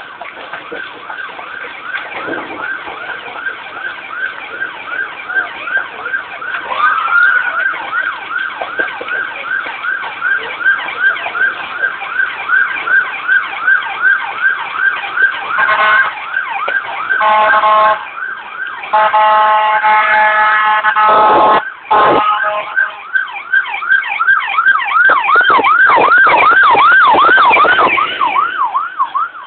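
Emergency vehicle siren sounding in fast repeated rising-and-falling sweeps, getting louder as it comes near, with several long horn blasts in the middle.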